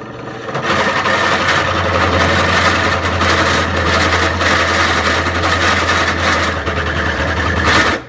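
Drill running at steady speed while its bit cuts through a metal spark plug non-fouler, a harsh grinding over a low motor hum. It starts about half a second in and stops suddenly near the end.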